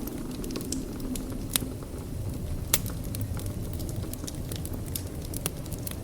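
Wood fire in a fireplace crackling: a steady low rumble with frequent sharp snaps and pops, two of them louder, at about one and a half and just under three seconds in.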